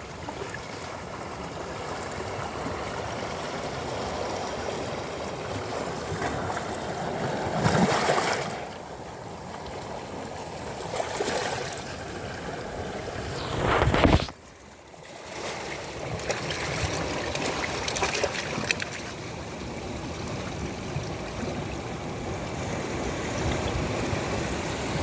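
Sea waves washing onto a sandy beach, with two louder surges about 8 and 14 seconds in. The sound drops abruptly just after the second surge, then builds again.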